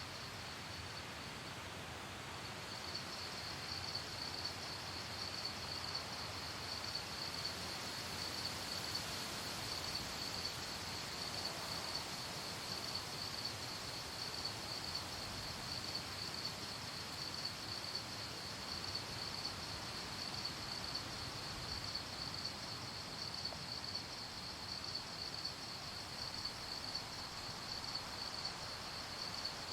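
Crickets chirping at night in a fast, steady pulsing trill that breaks off briefly about a second in and then resumes, over a faint even background hiss.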